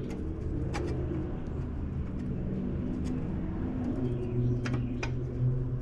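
A steady low mechanical hum, like a motor running in the background, with a few sharp light clicks of hand work on metal: one about a second in and two near the end.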